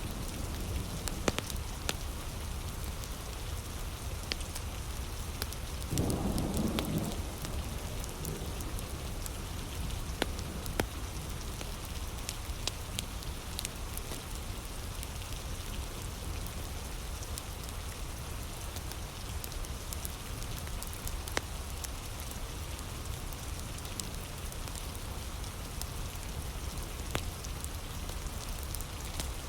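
Steady heavy rain falling, with the scattered sharp crackles and pops of a wood fire. A brief low rumble comes about six seconds in.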